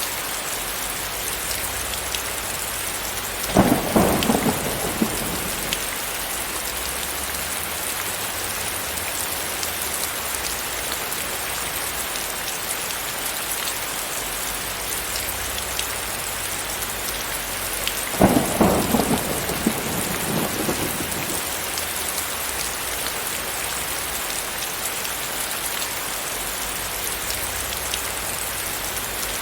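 Steady rain falling, with two rolls of thunder, one about four seconds in and another about eighteen seconds in, each rumbling for a couple of seconds over the rain.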